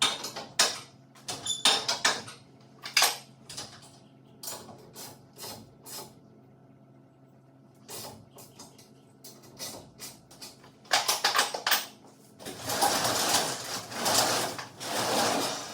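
Irregular metallic clinks and taps from tools on garage door torsion spring hardware, with a faint steady hum underneath. About twelve seconds in, a louder continuous rumbling, rattling noise begins, like the sectional door moving on its tracks.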